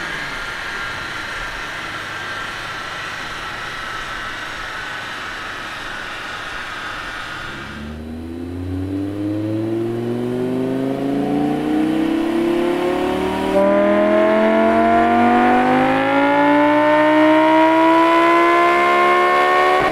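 Audi R8's 5.2-litre V10 through a KLINE valved exhaust, holding a steady drone for about eight seconds, then pulling in one long acceleration with the engine pitch climbing steadily. It gets louder a little past two-thirds of the way through.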